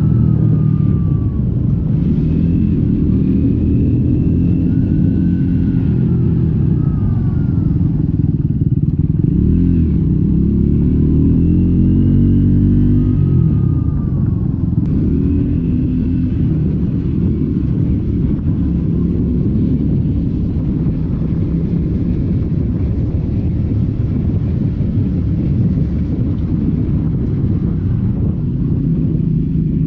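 Triumph Scrambler 400 X's single-cylinder engine through its stock exhaust, running under way. Its pitch rises and falls several times in the first half with throttle and gear changes, then holds steadier.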